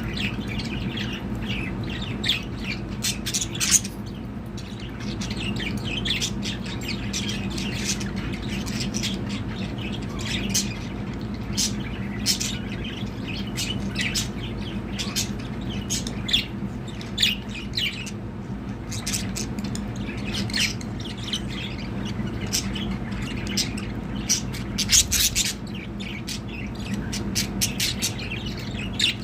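Budgerigars chattering, with many short, sharp squawks and chirps coming in quick irregular runs.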